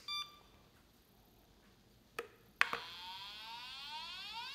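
Hoover robot vacuum switched on: a short electronic beep, a click about two seconds later, then its motor spinning up with a steadily rising whine.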